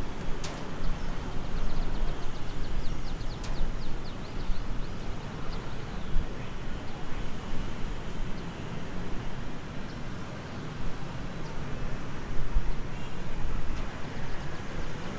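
Steady rumbling outdoor noise, with a sharp click about half a second in and a quick run of faint ticks between about two and four seconds in.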